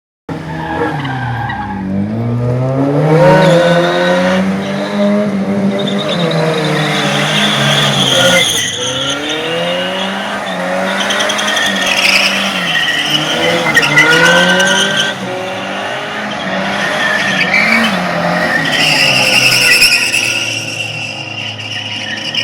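Tofaş Doğan SLX engine revving hard, its pitch rising and falling again and again, with tyres squealing.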